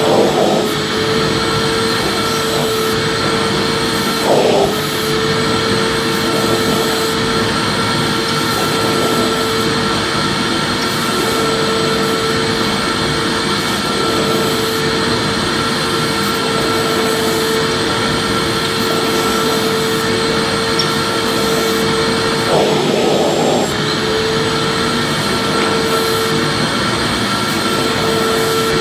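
Vacuum cleaner running continuously: a dense, steady rushing noise over a constant motor whine. The whine wavers briefly, with small surges about four seconds in and again near the end.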